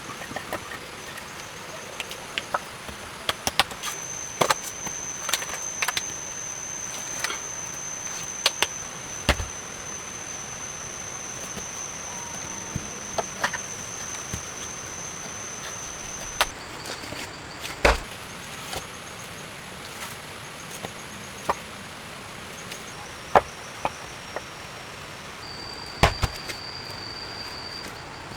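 Irregular sharp knocks of wood being chopped, with a few heavier blows, over a steady high-pitched insect drone that starts a few seconds in and stops a little past halfway.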